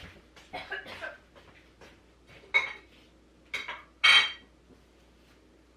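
A ceramic plate and a metal spoon clinking and clattering as they are handled and set down. A few light knocks come first, then three sharper ringing clinks in the second half, the last one the loudest.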